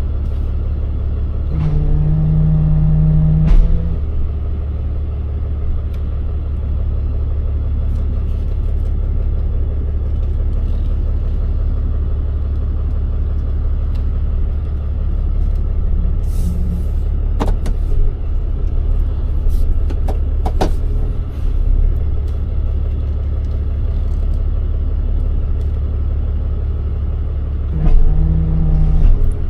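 Tow truck driving, heard from inside the cab: a steady low engine and road rumble. A short steady hum rises over it about two seconds in and again near the end, and there are a few sharp clicks in the middle.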